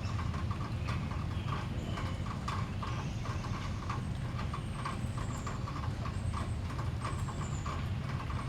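A rapid, steady run of clicks, about four or five a second, over a low constant rumble, with a few short, high, falling bird calls in the background.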